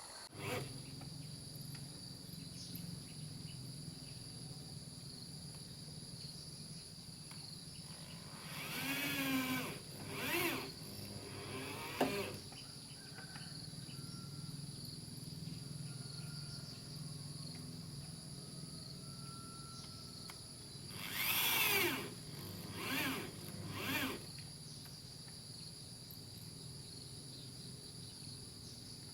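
Short bursts of a handheld power tool, its motor pitch sliding up and down as it speeds and slows, in two groups of three, over a steady high insect drone.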